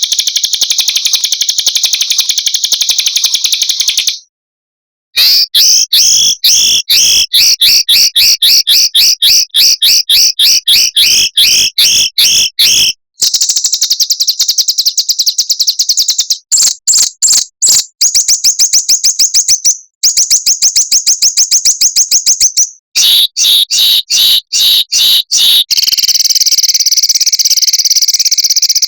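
Small songbird song: rapid, high-pitched buzzy trills and rattling chatter, delivered in a string of bouts broken by short, abrupt silences.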